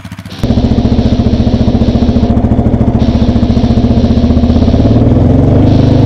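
Yamaha Raptor 700R quad's single-cylinder four-stroke engine running loud and close with an even pulsing beat, its pitch rising a little near the end as it picks up revs.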